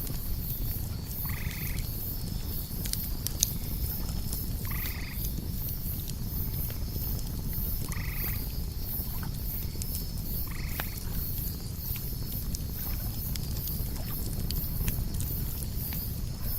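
Campfire crackling with scattered sharp pops over a low rumble, crickets chirping in a fast steady pulse, and an owl giving a short single-note call four times, about three seconds apart.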